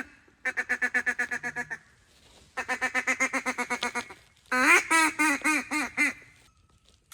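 Mallard hen duck call blown in three runs of rapid, evenly spaced quacks, about eight a second, with short gaps between them. The last run starts loud and steps down in pitch, a hail-and-greeting cadence for calling ducks in to the decoys.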